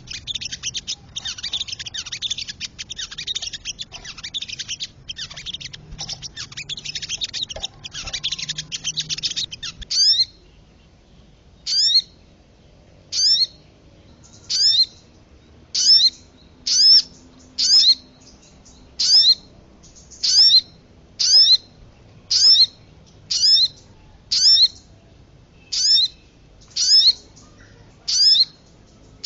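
Bird-lure recording of sogon and kemade calls: a dense, rapid, high-pitched chatter for about the first ten seconds, then a run of sharp single call notes, each a quick downward slur, repeated about once a second.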